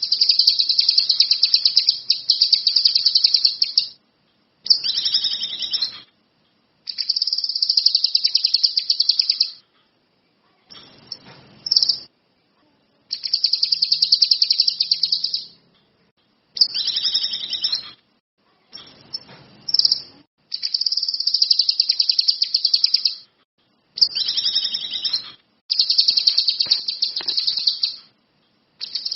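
A songbird singing in fast, rattling trilled phrases, about ten of them, each lasting one to three seconds, with sudden silent breaks between them.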